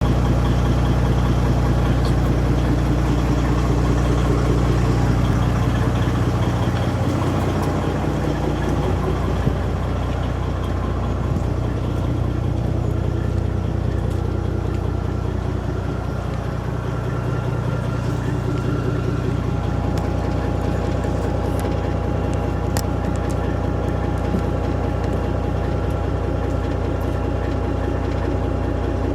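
Kenworth truck's Detroit Diesel Series 60 inline-six diesel, tuned to 800 hp, idling steadily through 8-inch straight pipes: a loud, even, low diesel note.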